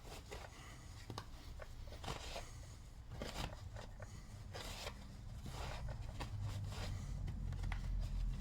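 Faint scattered clicks and short rustling noises of parts being handled, over a low steady hum.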